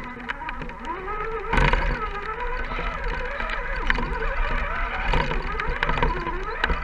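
Electric motor and gear drive of an Axial SCX10-series RC crawler whining, the pitch rising and falling with the throttle, with a couple of sharp knocks along the way.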